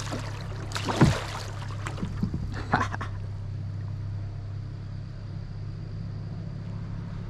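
Handling noises aboard a kayak: a few sharp knocks and rattles in the first three seconds, over a steady low hum.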